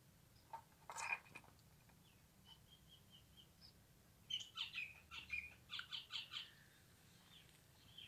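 A bird calling: one sharp call about a second in, a few short high notes, then a quick run of about ten chirps lasting about two seconds past the middle.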